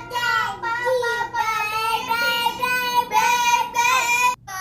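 A young child singing in a high voice, several short sung phrases with a brief break just before the end.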